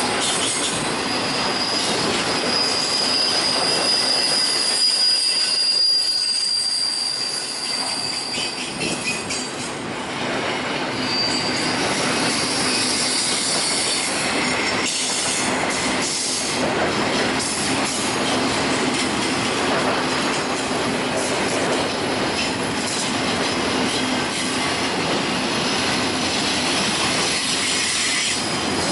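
Intermodal freight train's double-stack container cars rolling past: a steady rumble and rattle of steel wheels on rail. A thin high-pitched squeal from the train holds for several seconds in the first third and returns briefly a little later.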